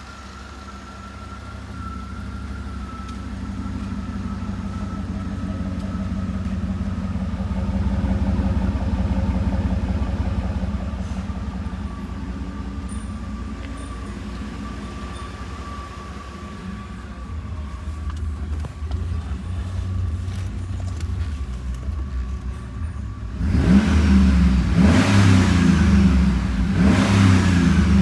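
2013 GMC Yukon's 6.2-litre L94 V8 running: it rises slowly in revs, eases back down, then is revved hard a few times near the end.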